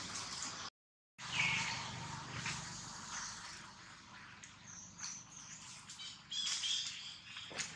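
Outdoor ambience with birds chirping in short high calls and faint scattered clicks. The sound cuts out completely for about half a second just before one second in.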